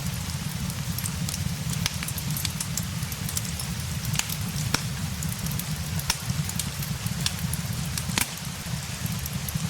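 Steady rain with a fireplace crackling over it: a constant low rumble and hiss, with sharp pops and crackles scattered irregularly throughout, one louder pop about eight seconds in.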